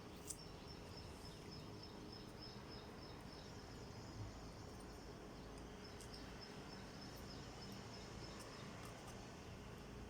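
Faint, steady high-pitched insect trill that stops and starts again twice, over low background hiss, with a single sharp click about a third of a second in.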